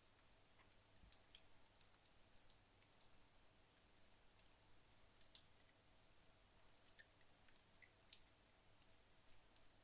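Wood logs burning in a fireplace, giving faint, sparse crackling: scattered small pops and ticks, the loudest a sharp pop about eight seconds in.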